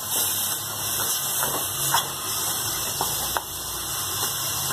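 Onion-tomato masala sizzling in a steel kadai while a metal spatula stirs it, with a few light scrapes and taps of the spatula against the pan.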